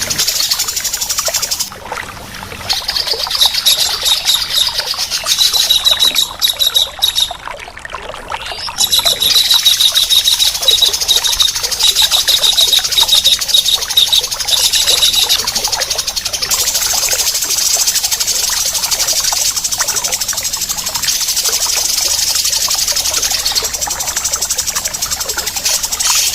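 Harsh, rapid strings of repeated bird notes from a mastering recording that mixes tengkek udang (kingfisher) and cucak jenggot (grey-cheeked bulbul) calls. They run over a steady background hiss like running water, and the chattering notes are densest in the first half.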